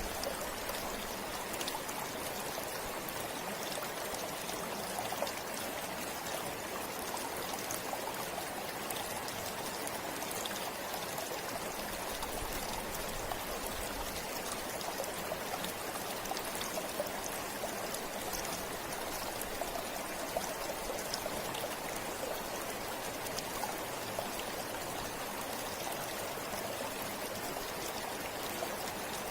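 A forest river or stream flowing over stones, a steady rush of water with small splashes and trickles.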